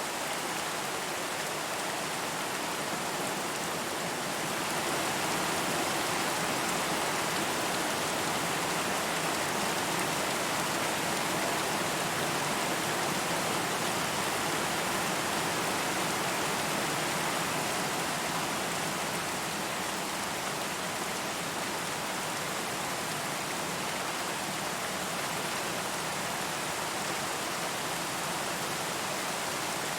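Steady rain falling, an even hiss of many drops without thunder or distinct splashes, swelling a little louder for a stretch in the middle.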